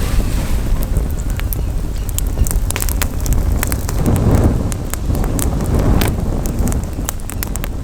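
Campfire crackling, with frequent sharp irregular pops and snaps over a steady low rumble of wind on the microphone. The noise swells briefly about four and six seconds in.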